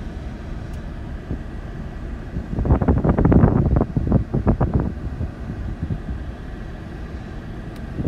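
Truck driving on a bumpy dirt road, heard from inside the cab: a steady low rumble of engine and road noise, with a couple of seconds of louder rattling and knocking about three seconds in.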